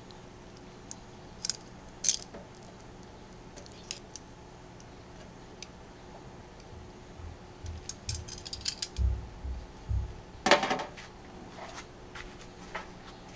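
Metal cooking utensils and cookware being handled: scattered light clicks and clinks, a quick run of rattling clicks, a few dull thumps, and one louder metallic clatter with a short ring about ten seconds in.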